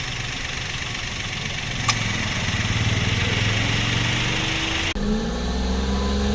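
Suzuki Wagon R engine running at idle. There is a sharp click about two seconds in. Near five seconds in the note changes suddenly to a deeper hum with a slowly rising tone.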